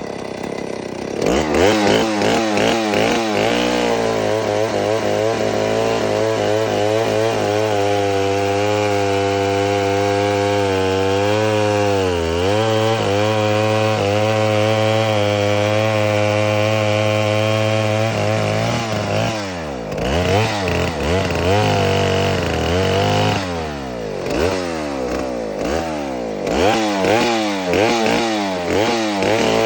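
Stihl 090 AV 137 cc two-stroke chainsaw running. It starts about a second in and is blipped up and down a few times, then held at a high steady speed for a long stretch with one brief dip in pitch. Near the end it is revved up and down repeatedly again.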